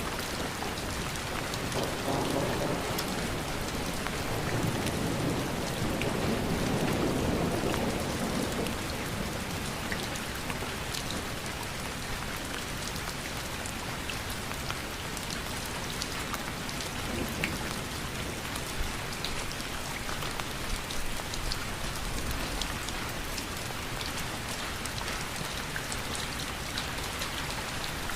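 Steady rain falling, with individual drops ticking sharply here and there. A low rumble swells and fades over the first eight seconds or so.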